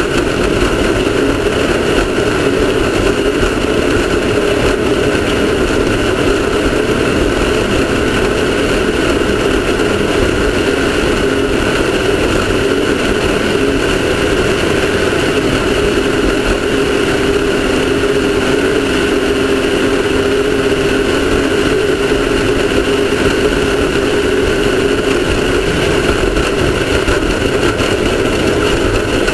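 Off-road race car's engine running loud and steady, holding an even speed with no breaks.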